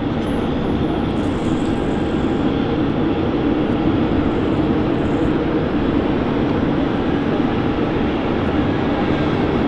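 Steady rumble of an Emirates Airbus A380's four jet engines, holding at an even level.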